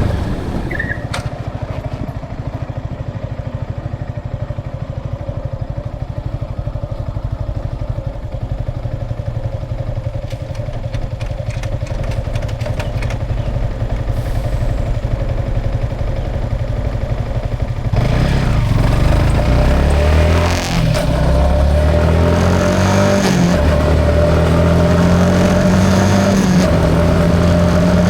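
Yamaha XSR 155's single-cylinder engine idling with an even pulse, then about two-thirds of the way in revving up and pulling away, the pitch climbing and dropping back in steps as it shifts through the gears, with wind and road noise.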